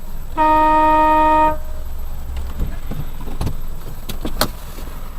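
A car horn sounds one steady blast of about a second, then road rumble from the moving car continues, with a few short knocks in the second half.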